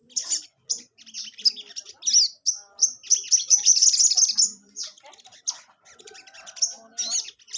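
Sogon songbird singing in rapid, high chirps and quick whistled glides, with a dense run of notes in the middle.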